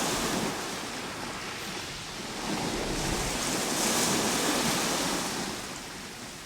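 Ocean waves washing in, a noisy surge that swells to a peak about four seconds in and then ebbs away.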